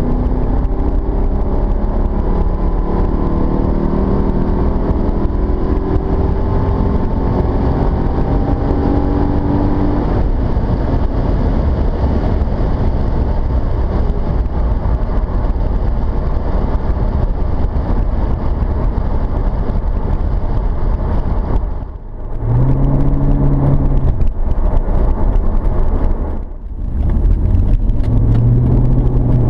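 Mercedes-Benz E55 AMG (W210) V8 running through its stock exhaust, heard from inside the cabin while driving and slightly muffled by the camera's case. Its pitch rises through the gears over the first several seconds, then it settles into steady cruising with road noise. About three-quarters of the way through the level dips briefly twice, each dip followed by a steady engine drone.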